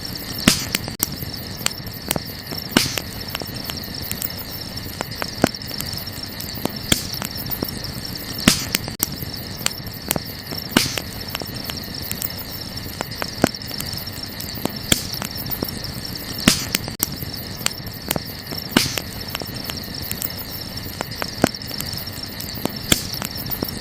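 Burning wood crackling, with irregular sharp pops and snaps, several of them louder every couple of seconds, over a steady high-pitched chirring in the background.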